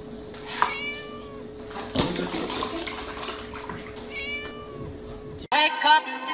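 A kitten meowing twice, each a high, falling call under a second long, with a sharp knock about two seconds in and milk pouring into a plastic tub between the calls. Music cuts in near the end.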